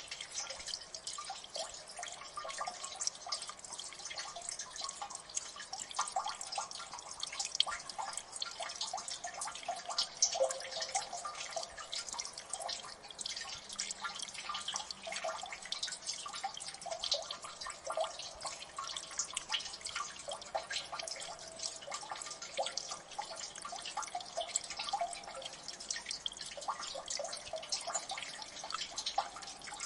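Water dripping in a gully: many quick drops plinking into shallow water, dense and irregular, over a faint trickling hiss.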